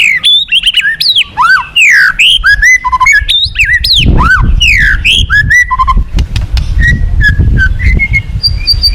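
White-rumped shama (murai batu) singing loudly: a fast run of varied whistled phrases with sliding notes, ending in a rapid high trill. Under it is the low rush of fast-flowing river water, which swells about four seconds in.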